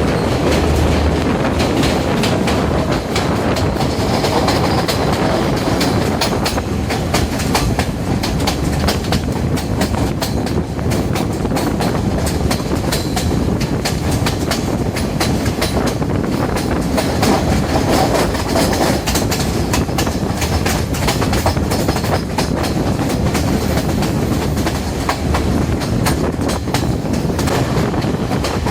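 Diesel intercity express train running steadily at speed, with a continuous rumble and wheels clicking over the rail joints.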